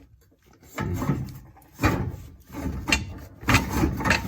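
Exhaust X-pipe being worked loose and slid back under the car: a handful of separate scrapes and knocks of metal pipe, the last one the longest.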